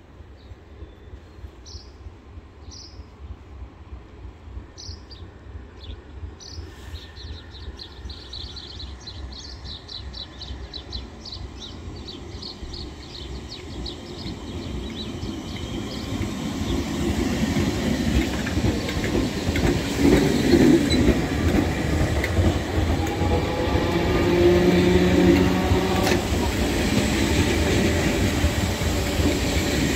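Merseyrail Class 507 and Class 508 electric multiple units approaching and passing close by, growing steadily louder over about twenty seconds to a steady rumble of wheels on rail with a low hum from the traction equipment.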